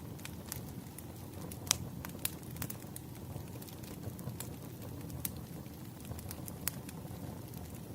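Bonfire crackling: a steady low rumble of burning with scattered sharp pops and snaps of wood, the loudest pop about two seconds in.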